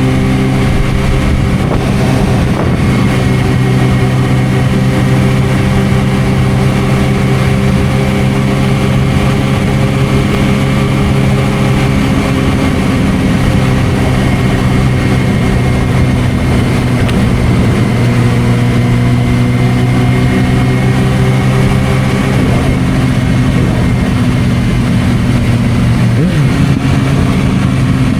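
Suzuki GSR600's inline-four running through an aftermarket Dominator exhaust, a loud steady engine drone held at an even speed for long stretches. In the first third the engine note is partly buried under a rougher rushing noise.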